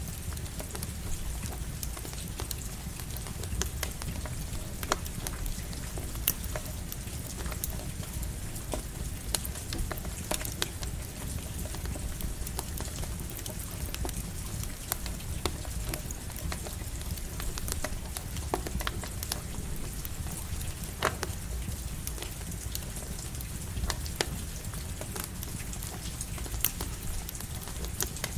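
Campfire crackling with irregular sharp pops over the steady hiss of light rain, with a low rumble underneath.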